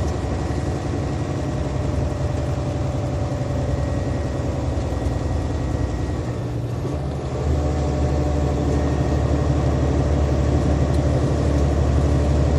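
Semi truck's diesel engine running steadily under a heavy load, heard inside the cab with road noise. The drone dips briefly about halfway through and comes back a little louder.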